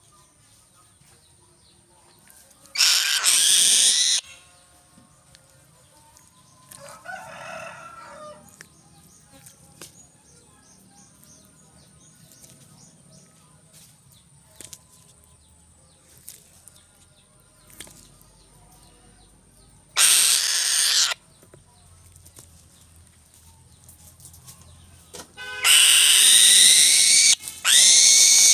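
Loud, harsh bird calls in bouts: one about three seconds in, a fainter one a few seconds later, another about twenty seconds in, and a longer run with falling pitch near the end.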